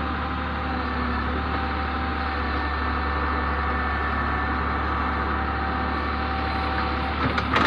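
JCB backhoe loader's diesel engine running steadily while it digs, with a few sharp knocks near the end.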